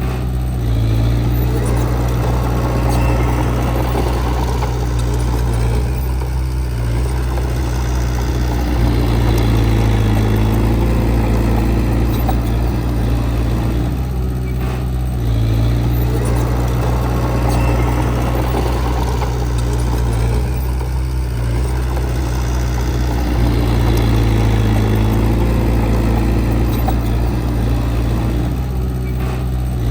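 Diesel engine of heavy earthmoving equipment running under load. Its note eases off briefly and builds again about every seven seconds, in a repeating work cycle.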